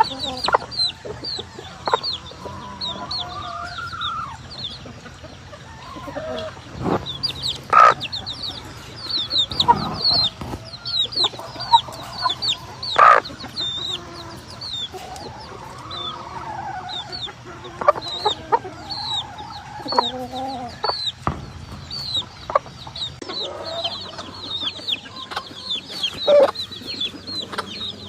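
A yard of gamefowl chickens clucking, with a rooster crowing now and then. Rapid high chirping runs throughout, and a few sharp clicks are heard.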